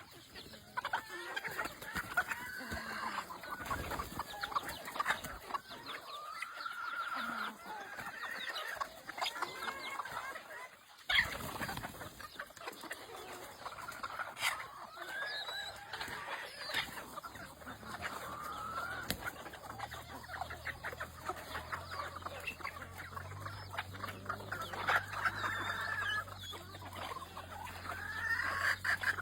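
Domestic chickens clucking and calling, many short calls overlapping, with one sharp knock about a third of the way through. A low steady hum comes in during the second half.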